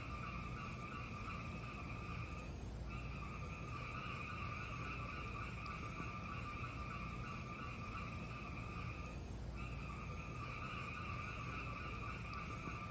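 Fireplace fire burning with a steady hiss that breaks off briefly twice, with faint crackles and a low rumble underneath.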